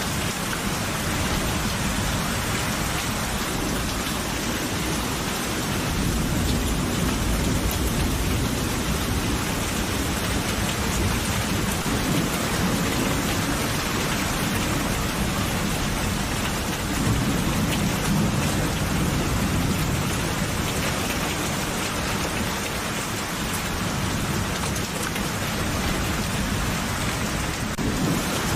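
Steady rain falling densely on a surface, with low rolling thunder rumbles that swell a few seconds in and again past the middle.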